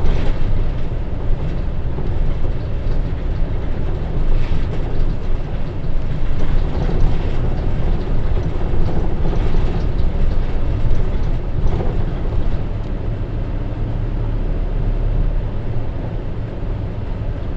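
Hino Rainbow HR city bus under way, its J07E six-cylinder diesel engine and road noise running continuously, with a few short knocks and rattles from the body.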